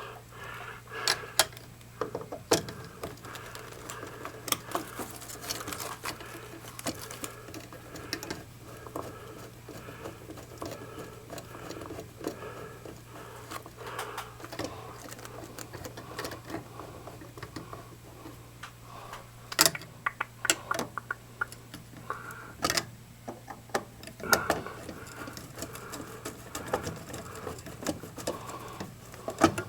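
Irregular light clicks and knocks of hand work with tools and metal parts, a few sharper knocks among them, over a steady low hum.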